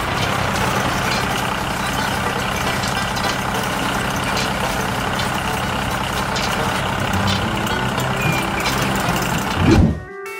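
A heavy vehicle's engine running steadily under a noisy mechanical clatter. It swells briefly near the end and then cuts off.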